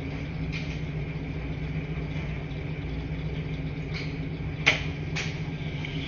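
Washing machines running with a steady low hum over an even background of noise. Two sharp clicks come about three-quarters of the way through, half a second apart.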